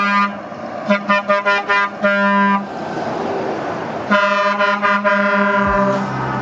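Truck horn honking: a run of short toots, a longer blast, then a held blast of about two seconds, over a steady vehicle noise.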